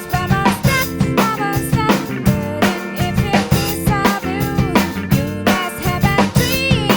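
Drum kit played along with a pop song recording: rapid snare, kick and cymbal hits over the track's chords and melody.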